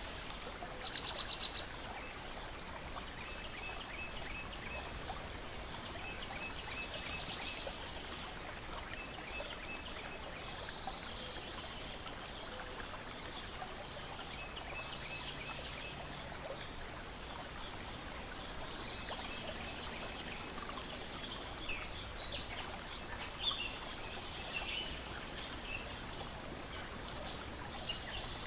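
Lakeside nature ambience: a steady wash of lapping water under birdsong. A bird gives a rapid trill about a second in, and short pulsed call series repeat every few seconds. Scattered sharp crackles from a wood fire grow more frequent near the end.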